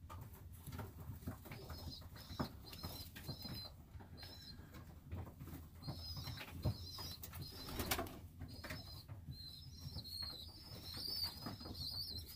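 Birds in a pigeon loft: short high chirps repeat about twice a second and run together into a rapid string near the end, over rustling and a louder flap or knock partway through.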